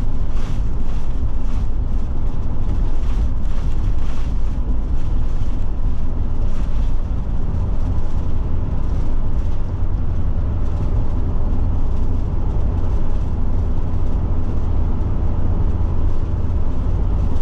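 Forest River Forester motorhome driving at road speed, heard from inside the cab: steady engine and tyre rumble, with faint clicks over the first several seconds.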